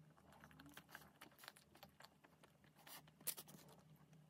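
Faint close-up mouth sounds of biting and chewing a soft Kinder chocolate bar with a white milky filling: small wet clicks and crackles, with one sharper bite-click about three seconds in.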